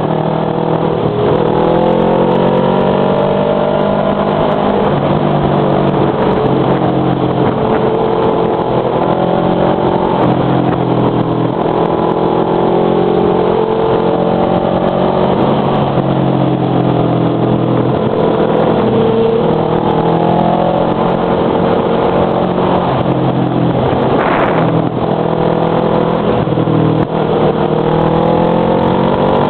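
Motorcycle engine running under way, its pitch rising and falling with the throttle, over steady wind and road noise.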